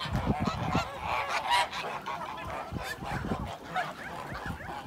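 A flock of birds calling, many short calls overlapping at once, with low rumbles now and then.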